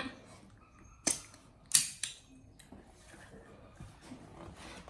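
Two short, sharp clacks of hard objects knocking together, a little over a second in and again about half a second later, with faint handling noise around them.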